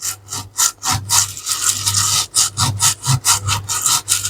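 Brush scrubbing back and forth over a circuit board wet with isopropyl alcohol, cleaning solder flux off the fresh joints, in quick repeated strokes several times a second. A low steady hum runs beneath it.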